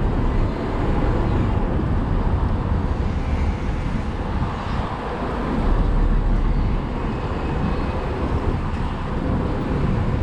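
Motorcycle riding through city traffic: steady engine and road noise with a heavy low rumble.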